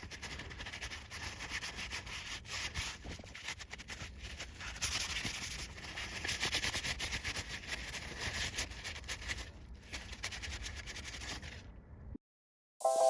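Hand sanding: repeated abrasive rubbing strokes on a surface, in an uneven rhythm. It cuts off abruptly about twelve seconds in.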